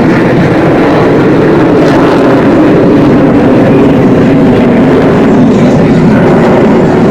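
Loud, steady jet engine roar that holds level, with no clear rise or fall.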